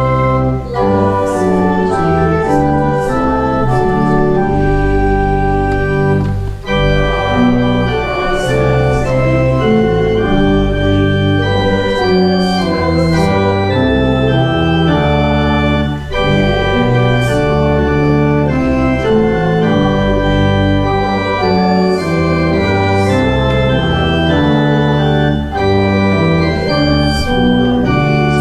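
Church organ playing sustained full chords that change every second or so, as in a hymn tune or postlude.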